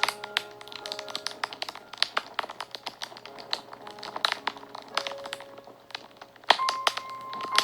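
Fire crackling and popping in quick, irregular snaps, with one louder pop about six and a half seconds in. Soft background music of long held notes plays under it.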